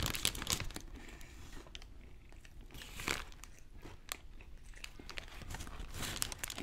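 Chewing a mouthful of Burger King's spicy hand-breaded crispy chicken sandwich, the fried breading crunching in irregular crackles. The crunches are loudest near the start and about halfway through.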